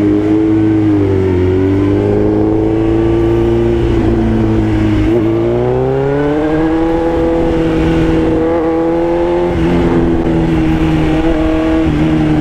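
Motorcycle engine running as the bike is ridden, its pitch rising and falling slowly with the throttle.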